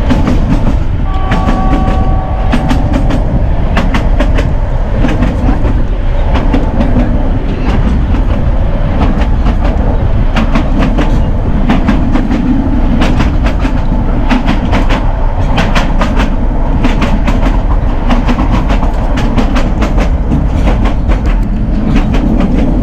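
Narrow gauge train coach rolling along the track, heard on board, its wheels clicking over the rail joints with a steady rumble underneath. About a second in, a brief two-note steady tone sounds for under two seconds.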